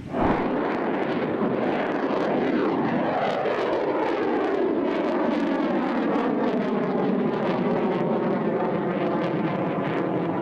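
Kalibr cruise missile launch: a sudden blast as its solid-fuel booster fires, then a steady, loud rocket roar whose pitch falls as the missile climbs away. The sound cuts off abruptly at the end.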